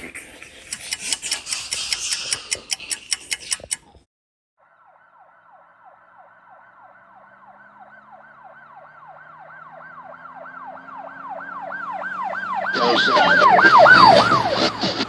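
Added sound effects: about four seconds of rapid regular clicking over a hiss, a moment of silence, then a siren-like wail of repeated falling sweeps that grows steadily louder. A loud rushing noise joins it about thirteen seconds in.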